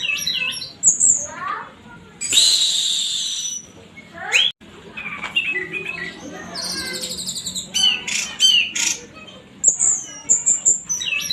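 Orange-headed thrush (anis merah) singing a long, varied song of whistled glides, quick high notes and a harsh rasping phrase about two seconds in.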